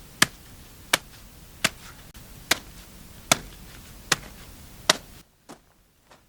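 Hammer blows on wood: seven sharp, evenly paced strikes, about one every three-quarters of a second. About five seconds in they stop, leaving only a few faint taps.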